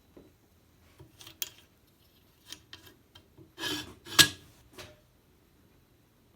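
Handling noises: scattered light clicks and rubbing, with a short scrape followed by a sharp click about four seconds in.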